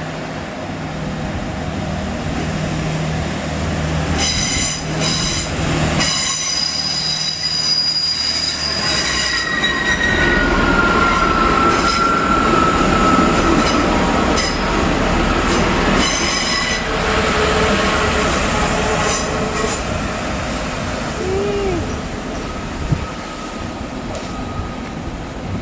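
Class 165 Turbo diesel multiple unit moving slowly over curved track, its diesel engine running underneath. The wheel flanges squeal in shrill, high-pitched bursts from about four seconds in. Then a long, lower squeal holds for several seconds through the middle, with shorter squeals after it.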